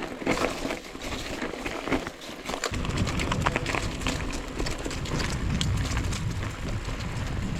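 Mountain bike rolling over a rocky dirt road: tyre crunch and a dense, irregular rattle of clicks and knocks from the bike. About three seconds in a low rumble joins and stays.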